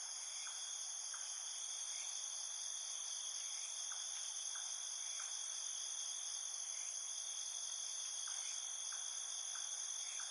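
Steady chorus of insects, a continuous high-pitched shrilling in several layers, with faint short chirps scattered through it.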